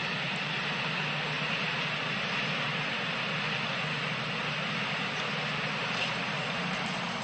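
A train rolling past, its wheels on the rails making a steady, even noise.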